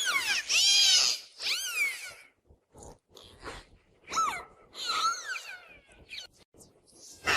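Domestic cat meowing: a run of high-pitched meows, each rising then falling in pitch. Three come close together at the start, and fainter ones follow after a pause of a couple of seconds.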